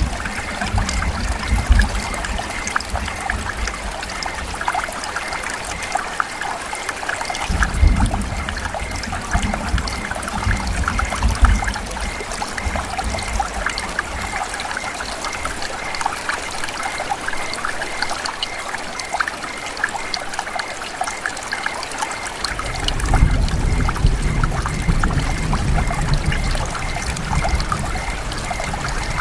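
Steady rain falling, a dense patter of drops, with low rumbling swells about eight seconds in and again over the last several seconds.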